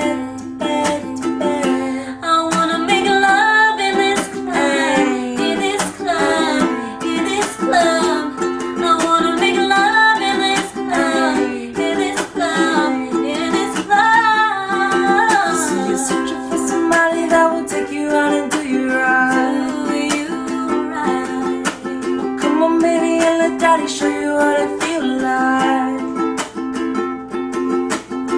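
Ukulele strummed in a steady rhythm, playing chords, with a melody line bending in pitch above it.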